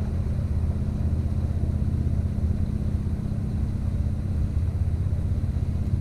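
Boat engine running steadily, a low drone with no change in pitch.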